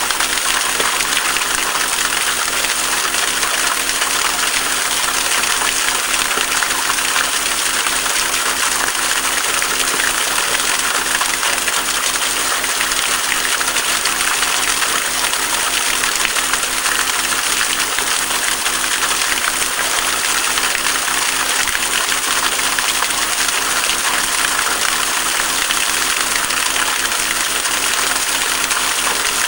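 Stream water rushing steadily, an even unbroken hiss of flowing water.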